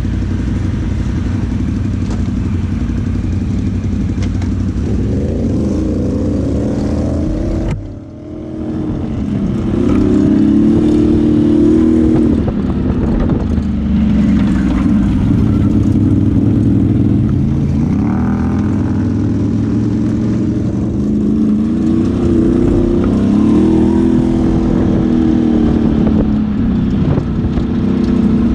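ATV engine running under way, its revs rising and falling as it rides the trail. A sudden brief drop in the sound comes about eight seconds in.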